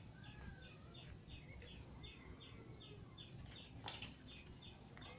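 Faint small bird calling in a fast, even series of short high chirps, about three a second, with a single knock about four seconds in.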